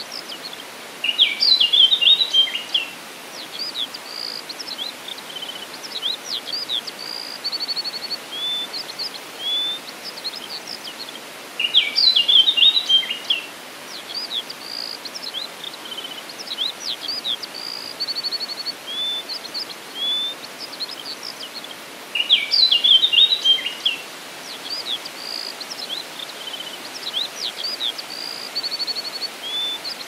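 Several birds singing and calling over a steady background hiss: short high chirps, a brief rapid trill, and a louder burst of song that returns about every ten seconds, the same passage repeating each time.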